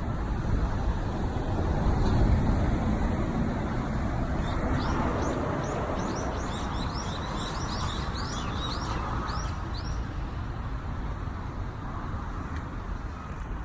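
A small songbird singing a quick run of short, high chirps for several seconds in the middle, over a steady low rumble like road traffic.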